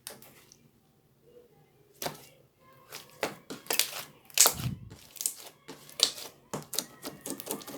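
A quick, irregular series of light clicks and taps, starting about two seconds in and growing denser toward the end.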